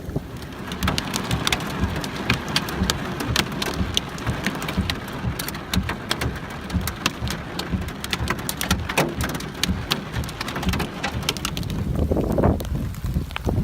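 Rain falling, with many sharp, separate drop hits over a steady patter. A gusty low rumble of wind on the microphone runs underneath and swells near the end.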